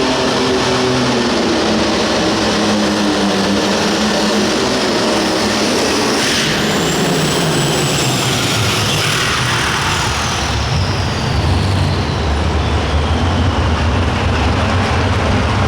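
Light limited super stock pulling tractor's turbocharged diesel engine running loud, with a steady low pitch for the first several seconds. About six seconds in the sound changes to a deep rumble, and a high whistle falls steadily in pitch over several seconds.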